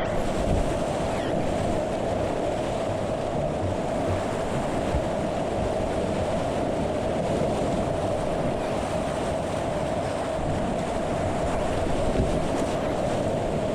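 Steady rush of whitewater around a kayak running a river.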